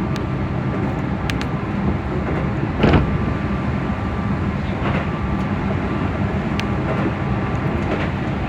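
Keihan electric train running on the line, a steady rumble with faint steady tones and a single loud knock about three seconds in.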